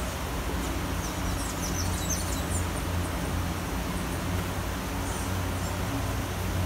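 Steady hiss of rain falling in a city, over a low rumble of traffic. A bird chirps in quick runs about a second in and again around five seconds.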